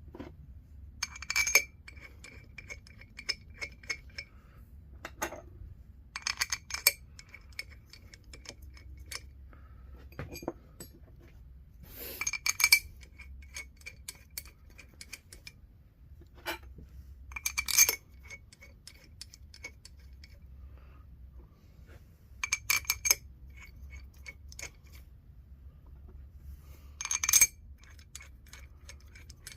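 Steel bolts clinking against the Sure-Grip differential case and each other as they are picked up and started by hand: a sharp, ringing metallic clink about every five seconds, with small ticks and rattles in between.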